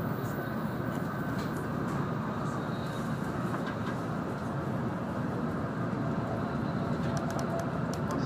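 Steady running noise inside the cabin of an N700-series Shinkansen: an even rumble and hiss from the train under way, with a few faint ticks near the end.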